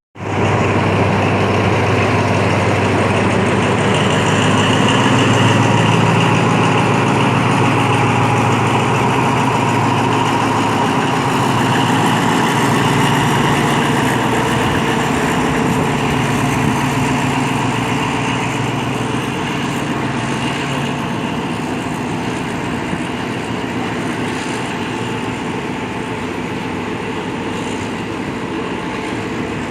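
KiHa 183 diesel railcar's engines running steadily with a low hum, coming in abruptly at a cut.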